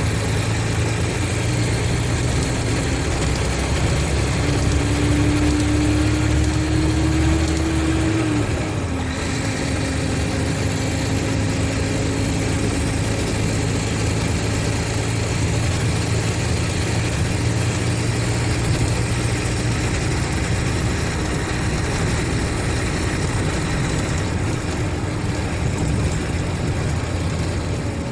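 Mercedes-Benz O500RSD coach's diesel engine running steadily. Its note climbs for a few seconds and falls away about eight seconds in, then holds level.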